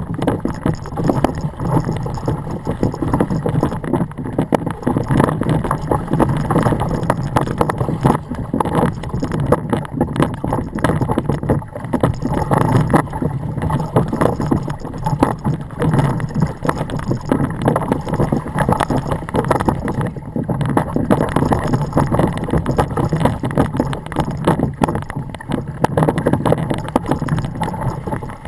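Log flume boat riding along the water channel of a Mack/Arrow log flume: steady water rushing and splashing around the hull, with dense clattering throughout.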